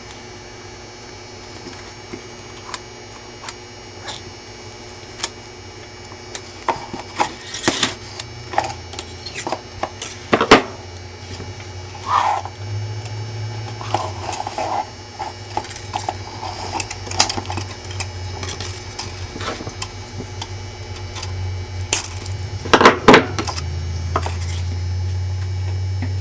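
24 gauge jewelry wire being handled and cut with wire cutters: scattered small rustles and clicks, with sharp snips about ten seconds in and again just before the end. A low mains hum comes in partway through and grows louder near the end.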